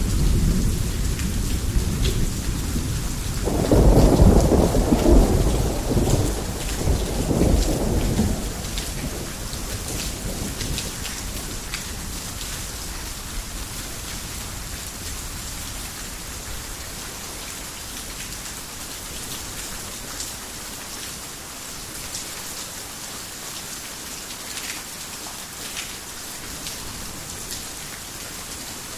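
Heavy rain falling steadily, with sharp drops ticking now and then. A fading rumble of thunder opens the stretch; a few seconds in, a louder peal swells and rolls for about five seconds, then dies away, leaving only the rain.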